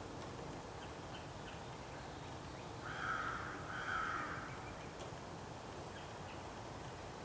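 A crow cawing twice in quick succession, about three seconds in, two harsh calls over a faint steady background hiss.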